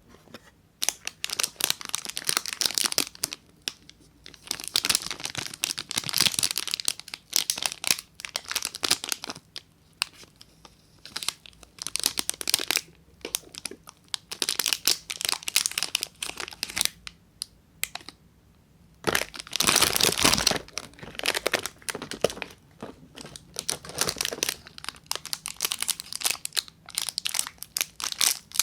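Soap wrapper being crinkled and torn open by hand: irregular spells of crackling packaging with short pauses between them, the loudest spell about two-thirds of the way through.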